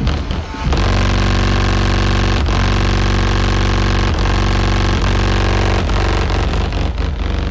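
Engine revved up and held at steady high revs for several seconds, easing off near the end.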